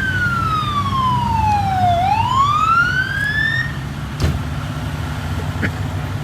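Fire engine siren in a slow wail, falling for about two seconds, then rising again and cutting off a little past halfway. Under it runs the steady low rumble of a heavy engine, and one sharp knock comes later.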